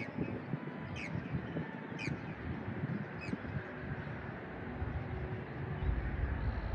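A bird calling with short, sharp notes that drop in pitch, about one a second, stopping a little after the middle, over a steady outdoor hiss. A low rumble sets in near the end.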